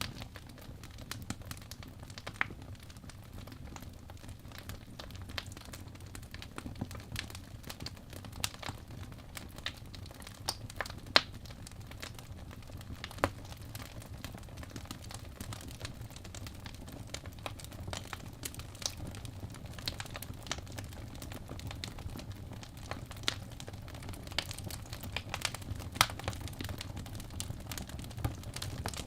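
Wood fire in a fireplace crackling, with irregular sharp pops and snaps over a steady low rumble of the flames; a few pops stand out louder.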